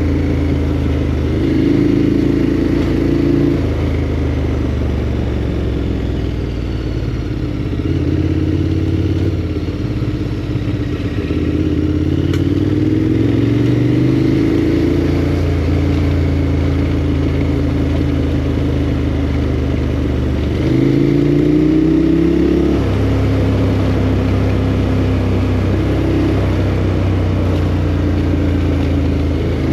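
KTM 1290 Adventure R's V-twin engine running under way on a gravel road, its pitch rising with the throttle and dropping back at gear changes several times, with the sharpest rise about two-thirds of the way through.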